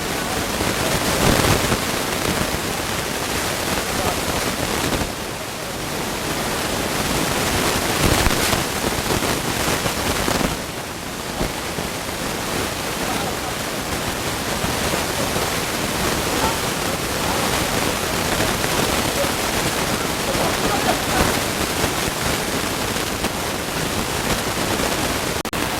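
A steady, loud rushing noise with indistinct voices beneath it.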